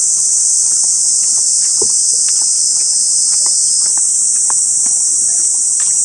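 A loud, steady chorus of insects: an unbroken high-pitched shrill with a few faint ticks underneath.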